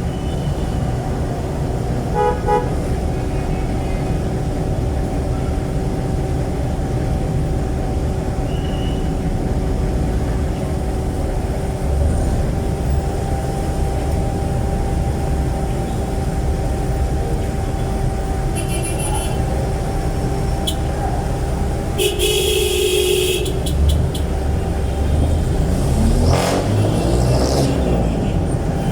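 Jeepney's Isuzu 4BC1 four-cylinder diesel running with a loud, deep exhaust rumble through an open, very loud muffler. Vehicle horns toot briefly a few times, the longest and loudest about three-quarters of the way through.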